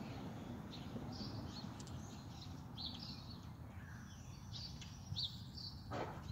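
Small birds chirping, short high chirps repeated every second or so, over a steady low rumble. A brief, louder sound comes right at the end.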